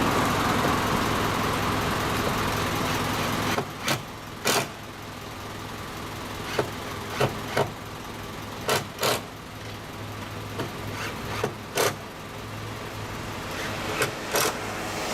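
Sharp hammer blows on wood, mostly in pairs and spaced irregularly, as the wooden danjiri float is fitted together. Traffic passes at first and fades over the first few seconds, over a steady low hum.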